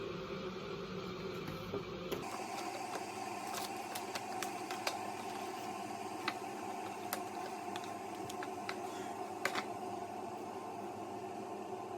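Steady indoor room noise with scattered light clicks and taps, about a dozen of them, after a change in the background about two seconds in.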